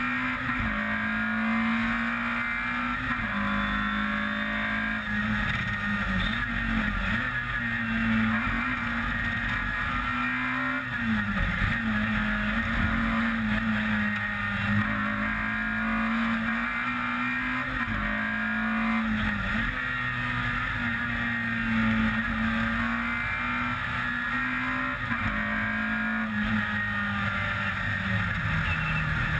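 Peugeot 106 rally car's engine running hard at high revs, heard from a camera on the bonnet. The engine note holds high and dips sharply several times, at gear changes, before climbing again.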